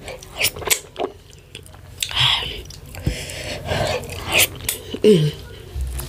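Close-miked chewing and biting: irregular wet, sticky mouth sounds and smacks of a person eating fufu with draw soup (ogbono and ewedu).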